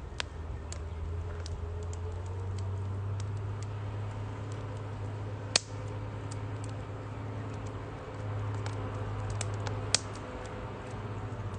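Firewood crackling in a Uniflame Nature Stove Large wood-burning fire stove: scattered small clicks, with two loud pops about five and a half and ten seconds in, over a steady low hum.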